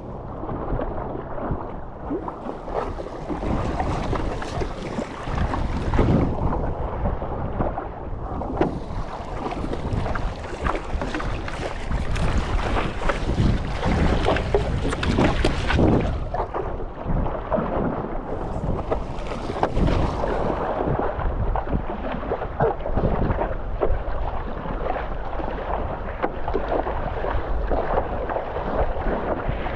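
Wind buffeting the microphone over choppy sea water sloshing and splashing, with irregular louder gusts and swells.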